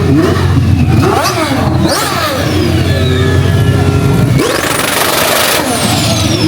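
Car engines revving hard, their pitch rising and falling, with a loud burst of noise about four and a half seconds in lasting about a second.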